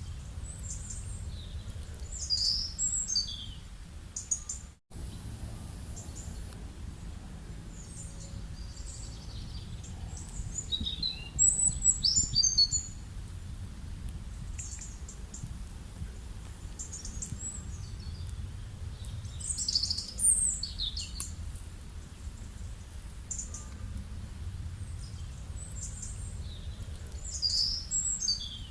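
Small birds chirping and calling in short bursts of quick high notes every several seconds, over a steady low background rumble. The sound drops out for a moment about five seconds in.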